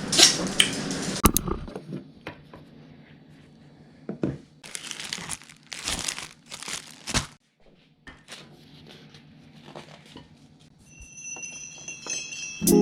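Packaging crinkling as it is handled, in three short rustling spells a few seconds in, with a few light clicks.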